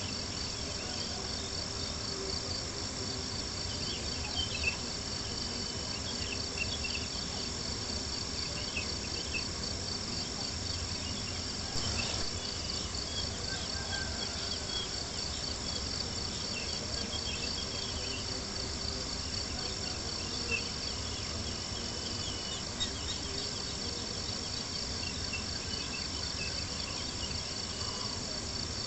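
A dense chorus of crickets chirping steadily in fast, even pulses, with scattered small pops and crackles of a campfire. One sharper crackle comes about twelve seconds in.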